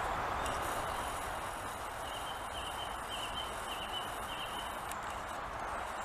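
A bird calling: a thin, high note repeated about five times in quick succession, starting about two seconds in, over a steady background hiss.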